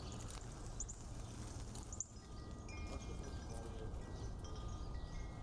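Wind chimes ringing, several clear tones sounding and dying away one after another over a steady low wind rumble. A couple of short high chirps come about one and two seconds in.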